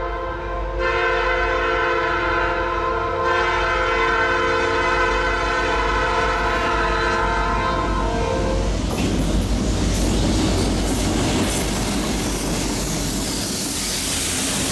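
Diesel freight locomotive's multi-chime air horn sounding one long held blast for the grade crossing, cutting off about eight and a half seconds in. The locomotives then pass close by, engine noise and wheels clattering over the rail joints.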